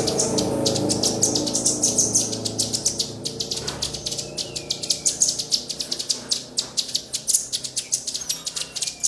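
Wild songbird calls: a fast, dense run of short, high-pitched chip notes repeated several times a second. A low steady hum sits under them and fades out after about three seconds.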